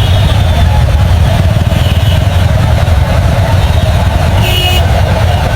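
Road traffic: vehicle engines running steadily, with a brief high-pitched squeal about four and a half seconds in.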